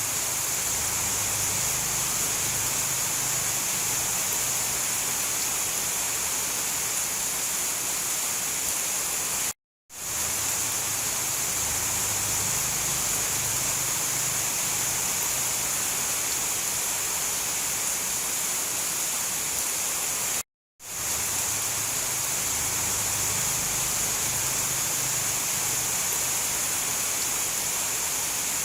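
Steady hiss of heavy rain, a short loop that cuts to silence for a moment twice, about eleven seconds apart, and swells back in each time.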